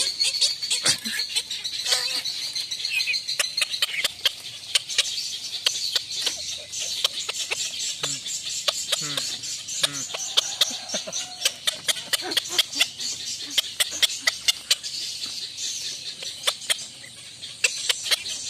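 A bird calling, with many sharp clicks and knocks scattered throughout and a few short pitched calls in the middle, over a steady high hiss.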